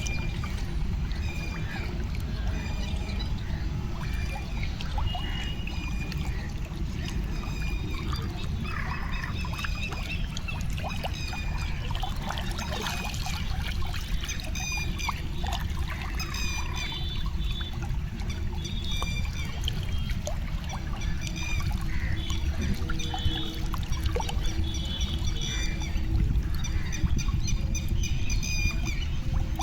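Pond-side outdoor sound: birds chirping and calling over and over, with short splashes and trickling water, over a steady low rumble.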